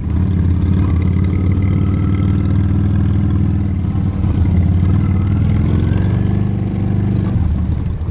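Honda Steed V-twin motorcycle engine pulling away and accelerating, its pitch slowly rising, then easing off about seven seconds in.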